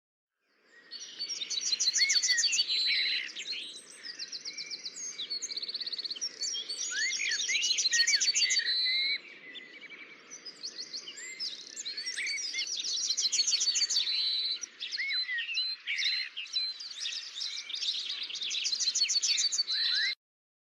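Several birds singing and chirping at once: overlapping rapid trills, whistles and quick upswept notes. The sound cuts off abruptly shortly before the end.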